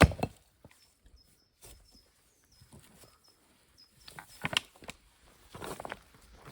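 A sharp knock at the start and another at the end, with quieter taps and rustling between them, as of cooking things being handled. A bird chirps high and faintly several times in the first half.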